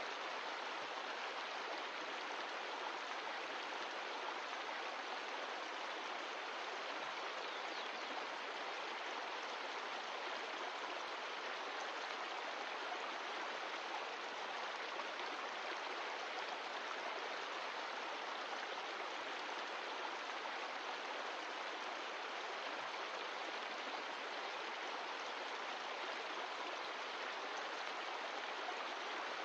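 Mountain stream flowing steadily, a constant rush of water with no breaks or changes.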